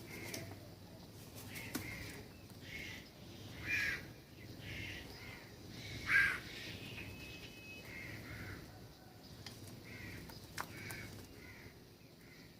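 Birds at a backyard feeder giving a series of short calls, repeated every second or so, with two louder calls about four and six seconds in.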